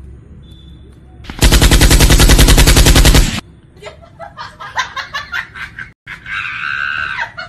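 A very loud burst of rapid, evenly spaced shots like machine-gun fire, lasting about two seconds, starting about a second and a half in. It is followed by a scatter of short knocks and clatter, and a brief pitched sound near the end.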